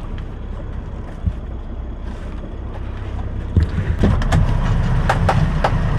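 Semi truck's diesel engine idling with a steady low rumble, which grows louder about three and a half seconds in, joined by several sharp knocks and clicks.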